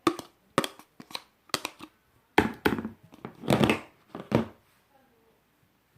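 Sky-blue clear slime squished and pressed by hand, giving a quick run of sticky clicks and squelching pops over about four seconds.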